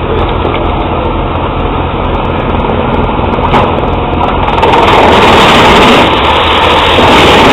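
Truck-mounted drum wood chipper, driven by a MAN truck engine, running steadily, with one sharp knock about three and a half seconds in. From about halfway through it grows louder and harsher.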